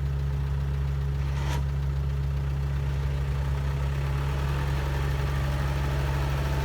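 Heavy machine's engine running steadily at a constant low speed, a deep even drone, with one faint click about a second and a half in.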